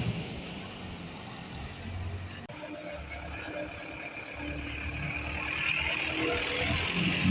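City bus engine running, with a low rumble that grows louder near the end.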